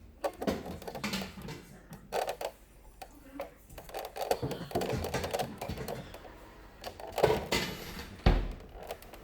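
Scattered knocks, clicks and clatter of things being handled in a kitchen, with a sharp knock about seven seconds in and a dull thump just after.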